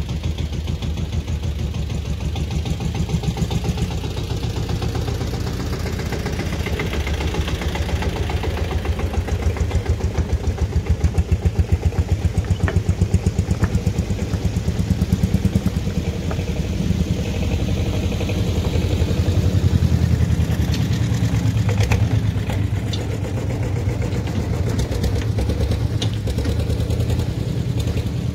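Tractor engine running with a fast, even firing beat, its level swelling and easing as it works.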